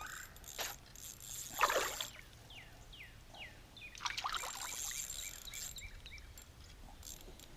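Water splashing at a kayak's side in two bursts as a hooked rainbow trout thrashes at the surface while being fought in. Between the splashes comes a run of short, high, falling chirps.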